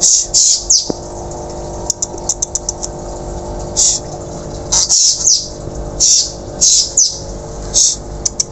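Whistling thrush (ciung batu) calling again and again: short, sharp, high notes, some falling in pitch, in a quick run around two seconds in. A steady low hum lies under them.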